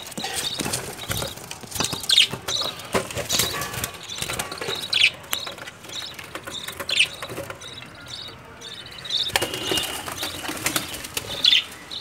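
Caged birds flapping their wings, with short high chirps every second or two.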